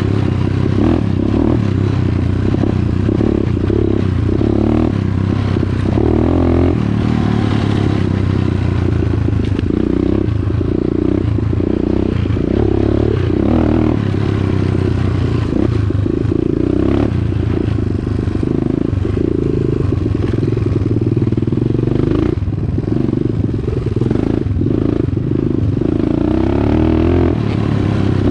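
Dirt bike engine running steadily while being ridden, with frequent small surges and dips in level as the throttle is worked.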